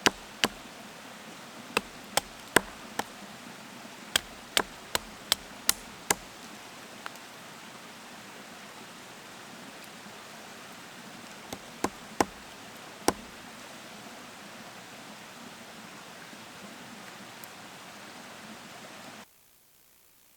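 A series of sharp knocks at irregular intervals, many in the first six seconds and a few more around twelve seconds in, over a steady background hiss. About nineteen seconds in, all sound cuts out abruptly to near silence: the microphone failing.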